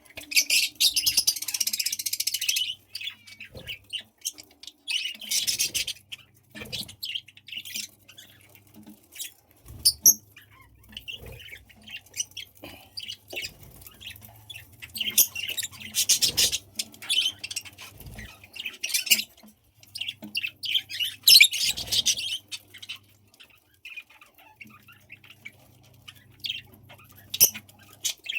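Budgies chattering and squawking in several bursts of a second or more each, with scattered small clicks in between.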